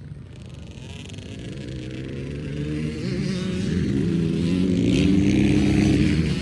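Small kids' dirt bike engine revving as the bike rides toward and past, growing steadily louder to its closest about five seconds in, its pitch rising and falling with the throttle.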